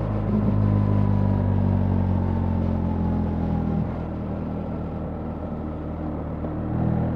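BMW R 1300 GS boxer-twin motorcycle engine running under way, with a steady note that drops and gets quieter about four seconds in, then picks up again near the end.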